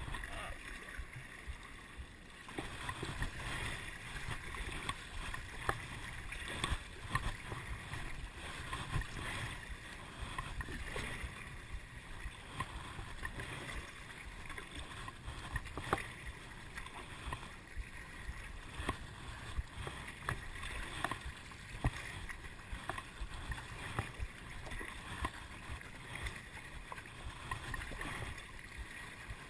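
Water splashing and sloshing around a kayak, with irregular small knocks and clicks.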